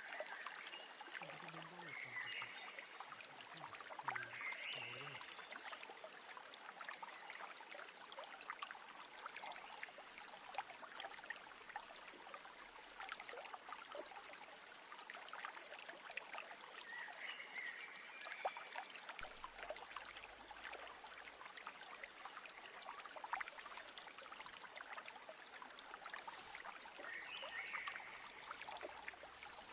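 A trickling stream, a steady crackly water noise, with a few short bird calls scattered through.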